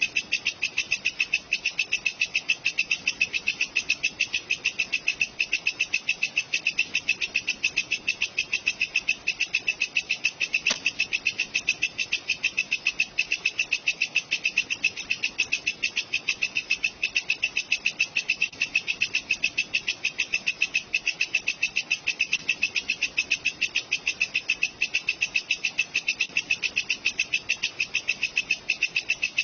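Walang kecek, a singing insect, calling with a steady, rapid, evenly spaced chirp of about four or five pulses a second.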